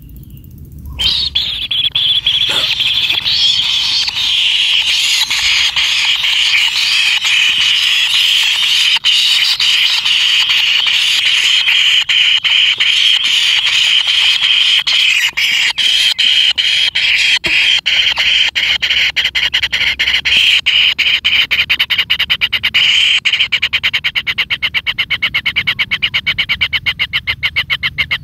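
Kingfisher nestlings in the nest giving a continuous rasping begging chorus. It starts about a second in and runs as a rapid pulsing churr, the pulses growing more distinct near the end.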